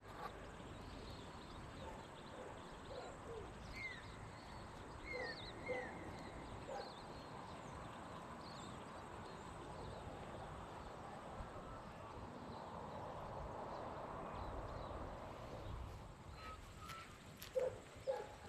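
Faint outdoor ambience: scattered short bird chirps over a steady low background hiss, with a few short, sharper sounds near the end.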